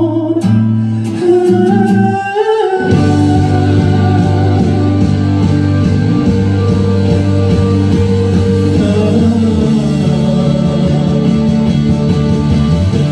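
A rock band playing a song. A sung line ends with an upward vocal slide about two and a half seconds in, and then the band carries on without singing, with guitars and sustained low bass notes.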